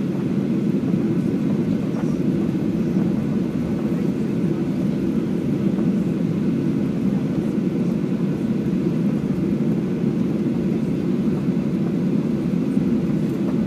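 Steady airliner cabin noise during the taxi after landing: a low, even rumble of the jet engines at idle and the cabin air, heard from inside the cabin.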